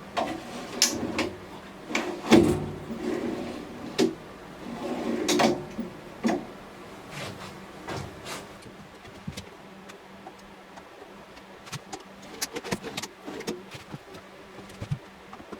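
Drawers of a wooden lathe stand sliding and knocking shut, a run of thumps through the first six seconds or so, then lighter clicks and taps.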